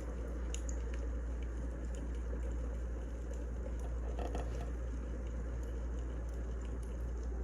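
Wood fire burning, a steady low rush with scattered small crackles and pops.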